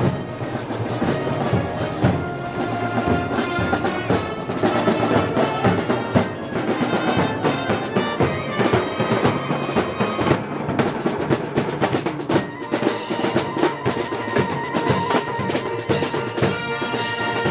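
Wind band with drums playing Moros y Cristianos festival music: held wind and brass tones over a steady drum beat.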